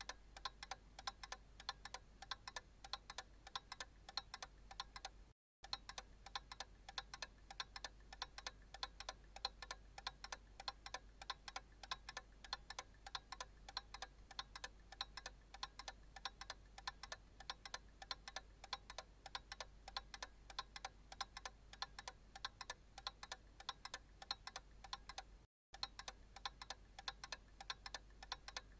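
Analog clock ticking steadily, a fast even run of light ticks over a faint low hum. The sound drops out completely for a split second twice, about five seconds in and near the end.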